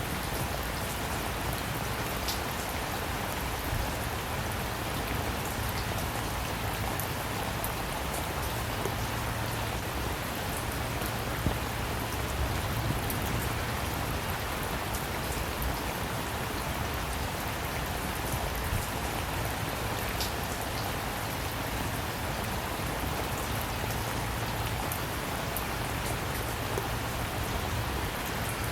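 Steady rain falling, with an occasional sharper drop tick standing out.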